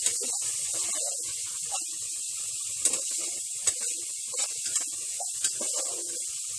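Chopped onion, spice and tomato masala sizzling steadily in hot oil in a nonstick pot. A spatula is stirring it, with several sharp clicks and scrapes against the pot.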